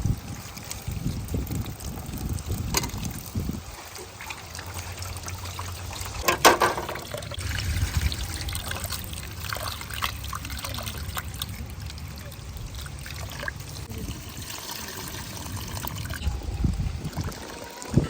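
Liquid trickling and pouring, with a couple of sharp knocks.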